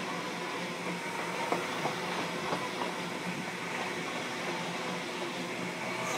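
Steady background hum and hiss of a railway station platform, with a few faint clicks.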